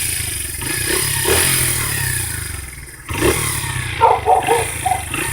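Dirt bike engine running under way with wind rushing past, easing off about three seconds in and then picking back up suddenly.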